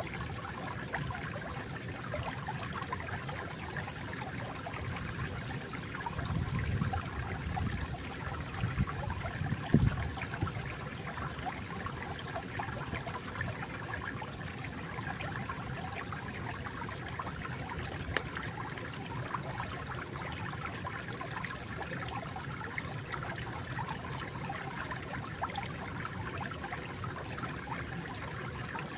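Shallow stream flowing and trickling steadily over stones, with a few louder low gurgles between about six and ten seconds in.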